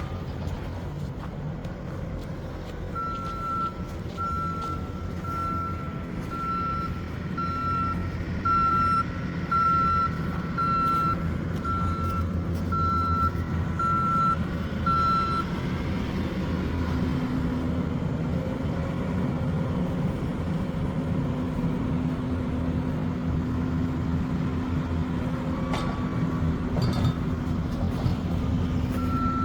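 A truck's reversing alarm beeping about once a second, about thirteen times, over the low running of its engine. The beeping stops midway and starts again near the end.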